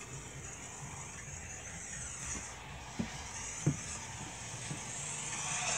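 Double-stack intermodal freight train rolling past close by: a steady rumble and hiss of the wheels on the rails, with two short knocks about three seconds in.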